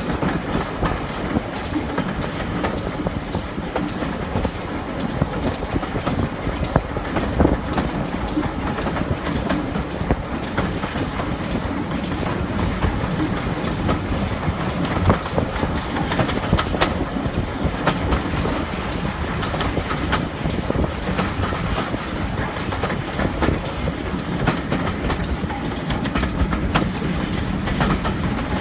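Steam-hauled train running at speed, heard from an open carriage window, with a steady rumble and wheels clicking over rail joints; a Stanier Black 5 4-6-0 steam locomotive is hauling.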